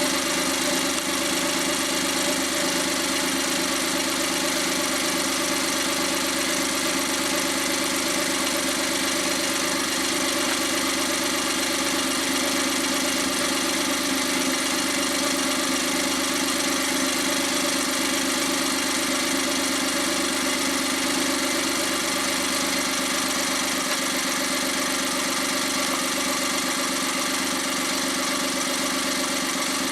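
Freshly overhauled Suzuki K6A 660 cc turbocharged three-cylinder engine idling steadily on its post-overhaul test run.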